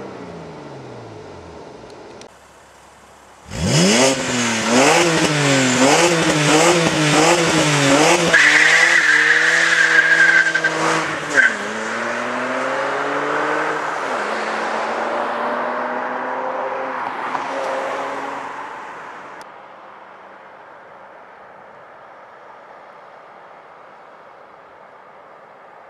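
BMW 130i's 3.0-litre straight-six, first dying down from a rev near the start, then launched hard about three seconds in: the revs jump up and down rapidly as the rear tyres spin, with a high tyre squeal for about two seconds. Near the middle it drops in pitch through a gear change and pulls away, fading out in the distance near the end.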